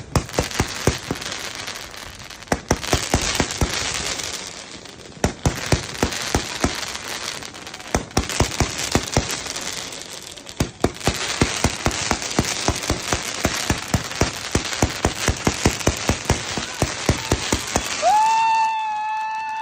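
Firecrackers popping in rapid, irregular runs: dozens of sharp bangs over a dense crackle, with brief lulls. Near the end a steady high-pitched tone with overtones comes in and holds.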